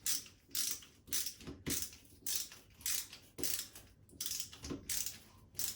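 Screw being turned by hand with a screwdriver into a plastic wall plug, a short grating sound with each turn, about two turns a second. The screw is going in badly, which she puts down to the wall plug rather than the screw.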